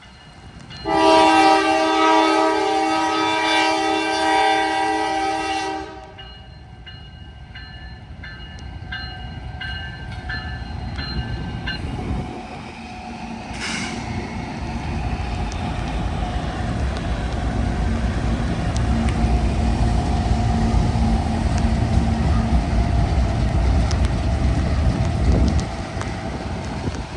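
Diesel locomotive's air horn sounding one long blast about a second in, followed by a bell ringing for several seconds. Then the low rumble of the locomotives and cars rolling slowly past over the freshly repaired track, easing off near the end.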